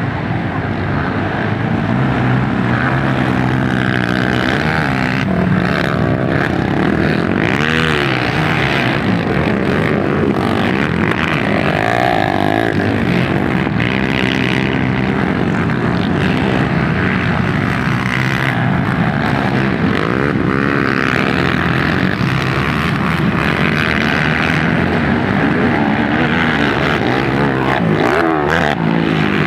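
Motocross dirt bike engines running on the track, several at once, their pitch rising and falling as the riders open and close the throttle.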